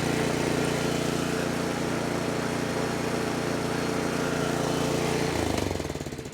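Snowblower's small engine running steadily on its freshly cleaned carburetor, then slowing and dying away near the end.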